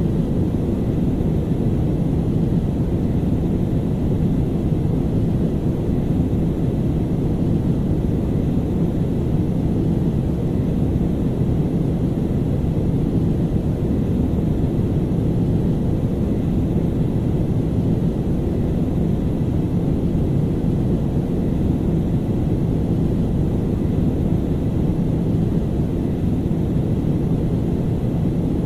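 Airplane noise: a steady low rumble that holds level without rising or fading.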